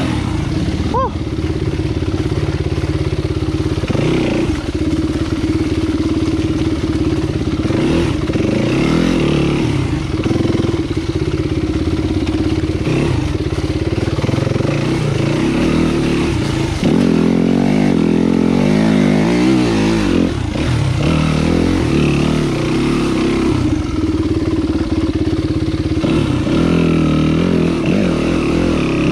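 Enduro dirt bike engine running on a trail ride, its pitch rising and falling with the throttle.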